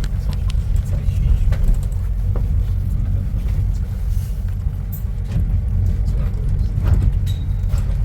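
Steady low rumble of a road vehicle moving through traffic, heard from inside it, with a few faint clicks and rattles.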